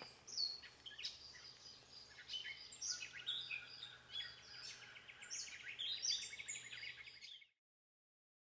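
Wild birds chirping and singing faintly, a mix of short high calls with a rapid trill near the end, before the sound cuts off suddenly.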